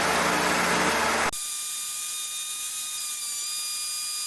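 Steady cockpit noise of a Cessna 152 in flight, heard through the headset intercom. About a second in it cuts off suddenly, and the engine rumble gives way to a thin steady whine of several high pitches over hiss.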